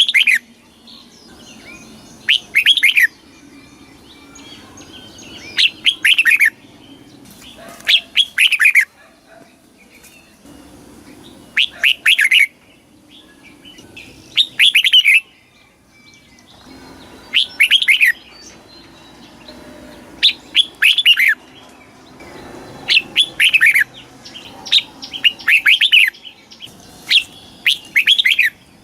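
Red-whiskered bulbul singing: short, loud phrases of quick falling notes, repeated about every two to three seconds.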